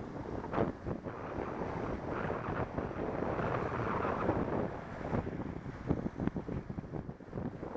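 Wind buffeting the microphone of a cyclist riding a folding bike through the city, a rushing noise that rises and falls, broken by a few short knocks.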